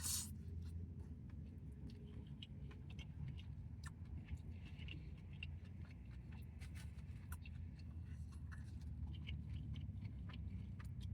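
Faint chewing and small clicks from handling a fried chicken sandwich over a steady low hum.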